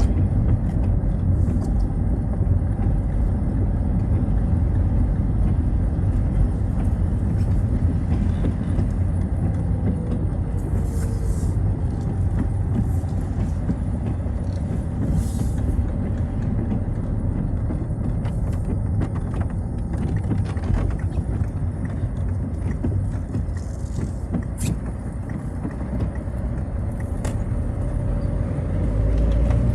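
Citroën Xsara driving on a rain-wet road: steady engine rumble and tyre noise, with a few brief hisses and a low swell near the end.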